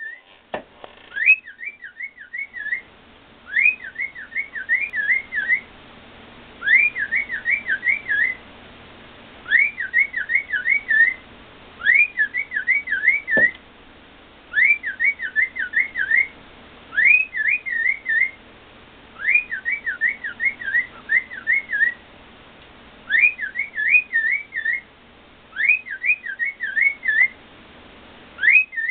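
Pet cockatiel whistling the same short warbling phrase over and over: each phrase a quick run of rising and falling notes lasting about a second and a half, repeated every two to three seconds. A single sharp click about halfway through.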